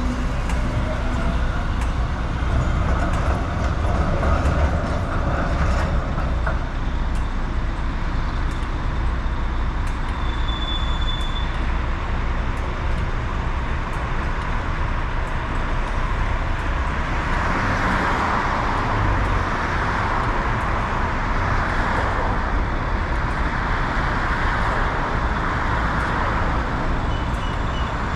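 Wind rushing over the microphone of a camera riding on a moving mountain bike, with steady road noise underneath. A louder broad rushing swells for several seconds about two-thirds of the way through, as of something large passing.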